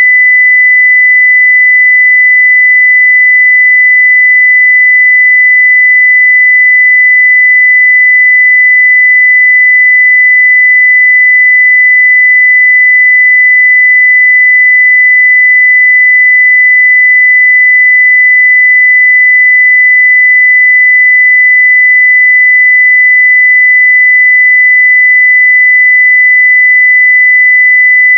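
A pure 2 kHz sine-wave test tone, held steady at full-scale level without any change.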